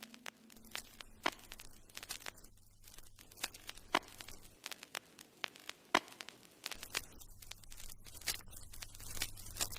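Faint, irregular crackling: scattered sharp clicks over a low hum.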